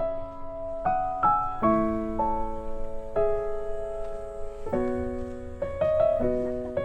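Background piano music: a slow, gentle melody of held notes and chords.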